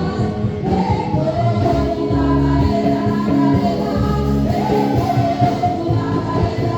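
Group of singers performing a Portuguese-language gospel praise song with a band: sung melody held over steady bass and instruments, with a light tambourine.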